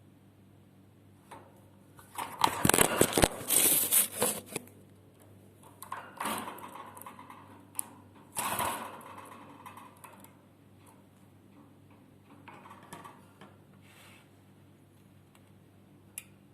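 Budgies making harsh, rattling bursts of sound: a long loud one about two seconds in, then several shorter, quieter ones.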